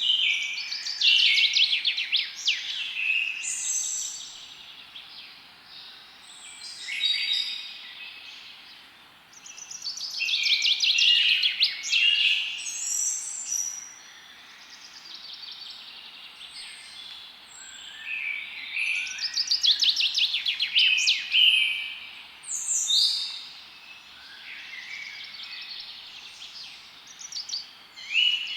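Several songbirds singing and chirping in a forest, in bouts of rapid trills and chirps every few seconds over a faint steady hiss.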